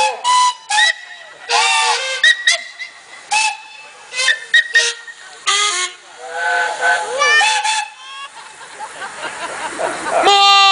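Steam whistles on several traction engines blown in a string of short toots at different pitches, some overlapping, with steam hiss between them. One loud, longer chime-like whistle sounds near the end.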